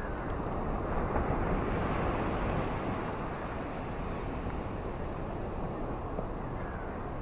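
Rainstorm ambience: a steady, low rushing of wind and rain, swelling for a couple of seconds about a second in.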